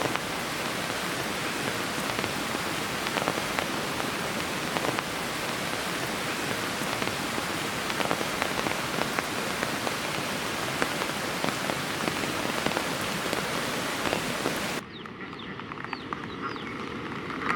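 Heavy rain falling, a dense even hiss with scattered sharp drop hits. It cuts off abruptly near the end, leaving a quieter background with a few faint bird calls.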